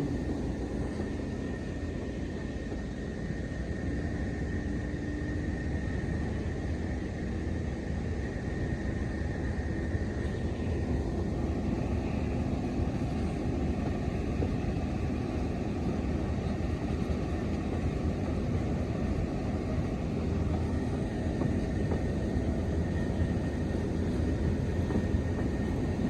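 Diesel train running steadily: a continuous low rumble with a faint steady high whine above it.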